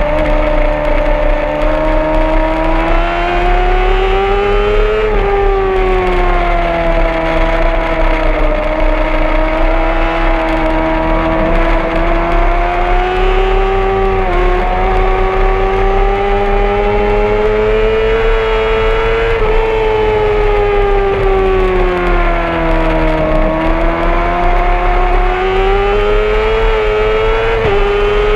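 Honda CBR600RR's inline-four engine at high revs, heard onboard with wind rush. The pitch rises and falls repeatedly as the bike accelerates and slows through the lap, with brief sharp dips at gear changes about five seconds in, around fourteen seconds, and near the end.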